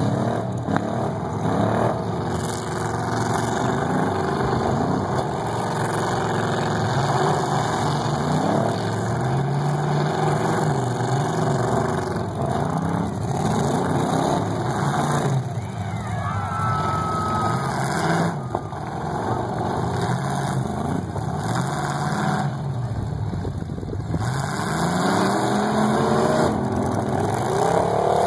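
Several demolition derby cars' engines revving up and down again and again as the cars push and ram each other, with a few knocks of metal on metal as they collide.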